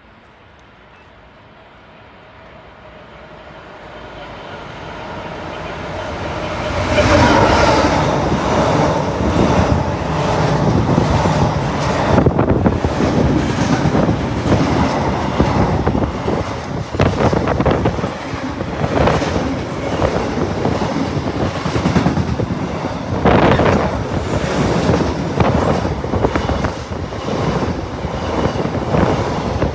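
A train approaches, growing steadily louder over the first several seconds, then runs past close by with a continuous rumble and repeated clicks of wheels over rail joints.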